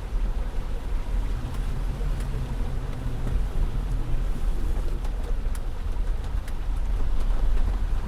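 A car driving through floodwater on a road: a steady rush and slosh of water against the car over a low rumble, with a few faint ticks, picked up by the dashcam's microphone.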